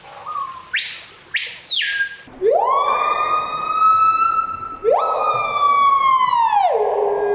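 Screaming piha calling: loud, ringing whistles that sweep sharply upward and are held. A brief high note comes first, then a longer, lower one that slides up again partway through and drops away near the end.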